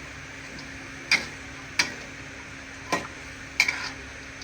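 A cooking utensil knocking against a frying pan while food is stirred, five sharp irregular knocks, one a quick double, over a faint steady hiss of frying.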